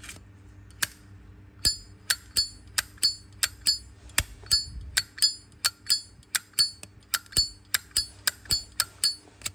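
Zippo lighter lid being flicked open and snapped shut over and over, a run of sharp metallic clicks with a bright ring, about three a second after a couple of single clicks at the start. The lid's clink is judged only a passable, okay sound.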